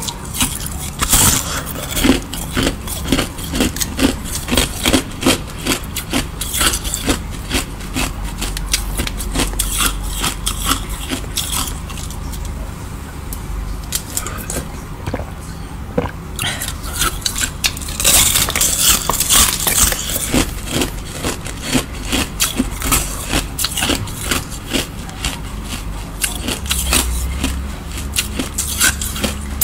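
Close-up eating sounds: rapid, crisp crunching and chewing as a raw green vegetable is bitten and chewed. The crunching thins out for a few seconds in the middle, then picks up again, over a steady low hum.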